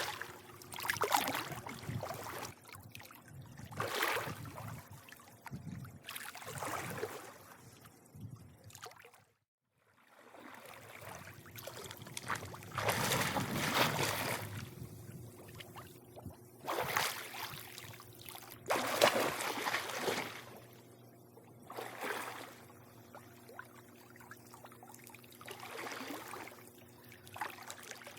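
Swimming-pool water lapping and sloshing in irregular surges, with a faint steady hum underneath. The sound cuts out completely for about half a second a little after nine seconds in.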